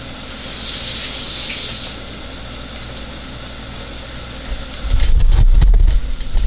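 Chicken and onion sizzling steadily in a pot on a gas stove, with a louder hiss for about a second and a half near the start. About five seconds in, a loud low rumble with irregular knocks takes over: the camera being picked up and carried, its microphone handled.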